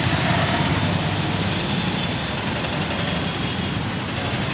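Steady road traffic noise, with vehicle engines and tyres running together.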